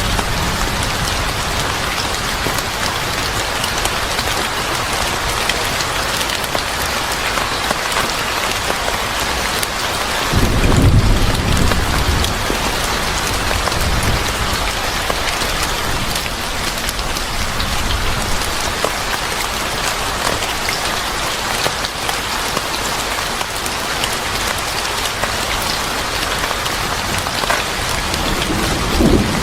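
Steady heavy rain falling on a surface, with a low rumble of thunder about ten seconds in and another beginning near the end.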